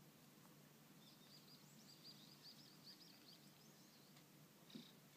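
Faint birdsong: a small bird sings a quick run of high, repeated chirping notes for about three seconds. A single soft click comes near the end.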